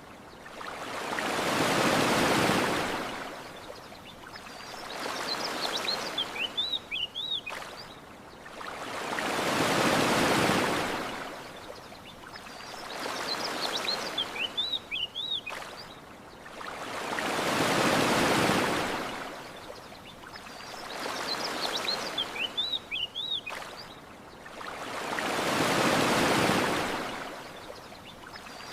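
Ocean waves washing onto a shore, swelling and fading about every eight seconds: four large swells, with smaller ones between. In the lulls a small bird gives a quick run of high chirps, three times.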